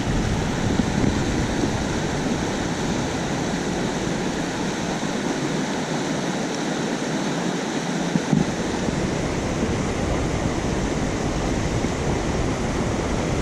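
Steady loud rush of a fast-flowing creek, with a low rumble underneath that eases off for a few seconds midway.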